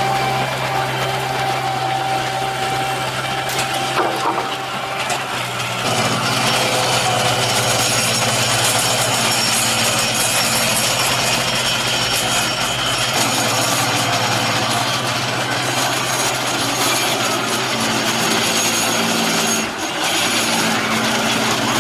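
Construction vehicle engine running steadily, getting louder and noisier about six seconds in.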